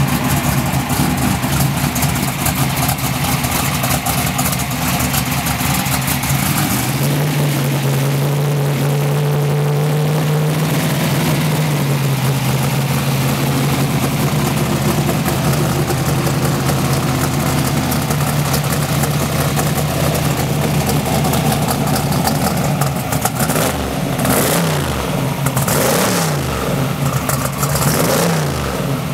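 Twin-turbo, alcohol-injected racing V8 in a Pro Mod Camaro idling during warm-up, with its idle note stepping up slightly about seven seconds in. Near the end come a few quick throttle blips, each rising and falling in pitch.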